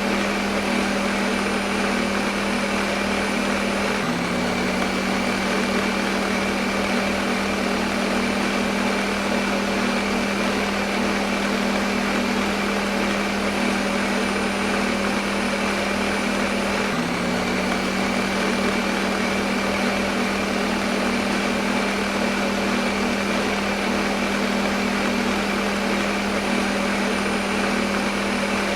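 Electric kitchen blender running continuously: a steady motor hum over an even whirring noise, with a small shift in pitch about four seconds in and again about seventeen seconds in.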